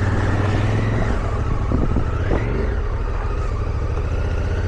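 Motorcycle engine pulling at low speed through a shallow, rocky water crossing. The revs rise and fall a couple of times over a steady engine drone.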